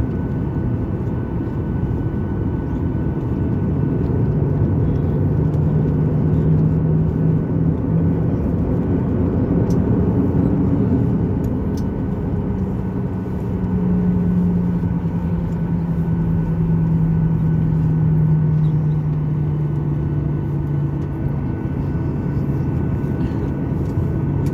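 Boeing 737-900ER's CFM56-7B jet engines running at taxi power, heard as a steady low rumble inside the passenger cabin. A low hum in the engine sound grows louder twice, around four to eight seconds in and again from about thirteen to twenty-one seconds in.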